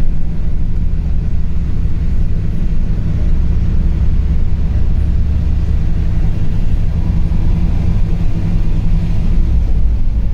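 LiAZ 5292.65 city bus running along the road, heard from inside the cabin: a steady low engine and road rumble.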